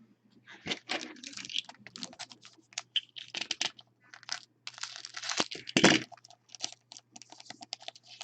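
A trading-card pack wrapper being torn open and handled: a run of crackly rustles and sharp crinkles, loudest around five to six seconds in.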